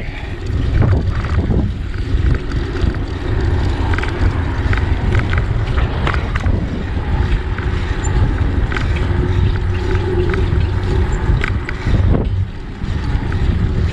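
Wind rushing over the microphone of a moving bicycle rider, a steady low rumble with scattered light clicks and rattles.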